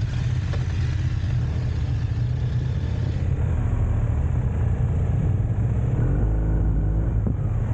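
Motorcycle engines running with a steady low rumble, one revving up briefly about six seconds in.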